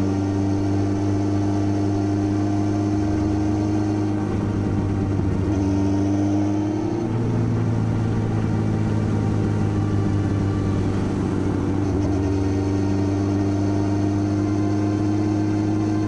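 Motorcycle engine running steadily under way. The revs rise slightly about five seconds in and drop about two seconds later.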